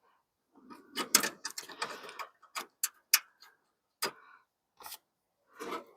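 Hands handling small hard parts: a quick cluster of clicks and rattles about a second in, then single sharp clicks roughly once a second.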